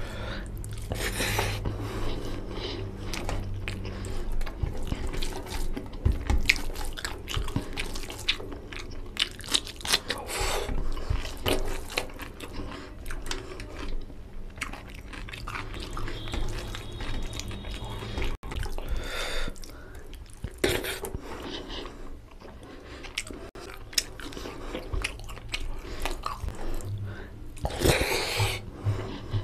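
Close-up wet eating sounds: chewing mouthfuls of fried rice and chicken curry, with squelching as the rice is mixed into the gravy by hand on a steel plate. Many short clicks and smacks follow one another irregularly.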